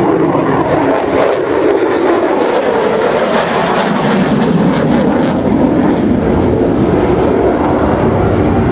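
Lockheed Martin F-35C Lightning II's jet engine roaring during a fast, low carrier-break pass, loud and steady, with a crackling edge through the middle that eases into a lower rumble near the end.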